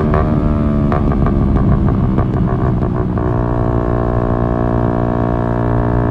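Yamaha MT-125's single-cylinder four-stroke engine through an Akrapovic exhaust, its revs falling off as the bike slows, with a rapid run of crackles from about one to three seconds in. The engine then settles to a steady note.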